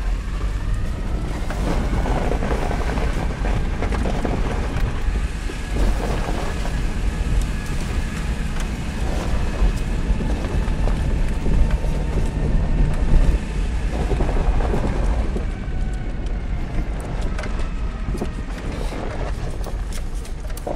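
A 1999 Subaru Outback's flat-four engine and road noise heard from inside the moving car, with a faint whine that slowly rises and falls with engine speed. This is the noise that the occupants think could be a spun bearing or something rubbing at the front of the engine near the timing belts.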